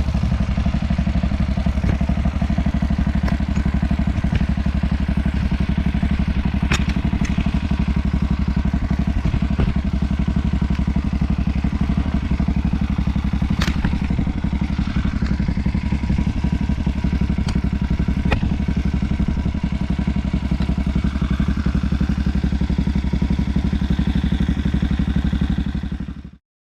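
A 212cc single-cylinder four-stroke engine on a motorbike runs steadily at an even speed, with a few sharp clicks over it. It cuts off abruptly near the end.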